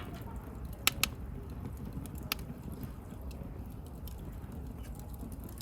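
Wood burning in a bonfire, crackling: sharp pops, two close together about a second in and another just after two seconds, over a steady low noise.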